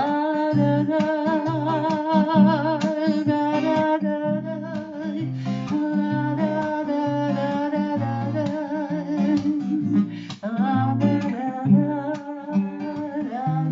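Strummed acoustic guitar with bass notes under a woman's voice singing a wordless melody with vibrato, in the style of a Russian singer-songwriter (avtorskaya pesnya) song.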